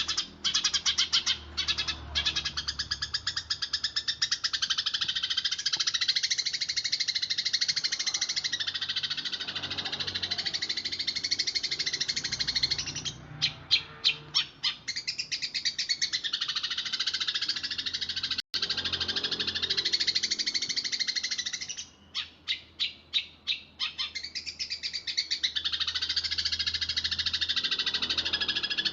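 Eurasian tree sparrow chirping in a fast, dense rolling stream of high chirps. Twice, about halfway through and again near three-quarters, the roll breaks into a few separate, spaced chirps before running on.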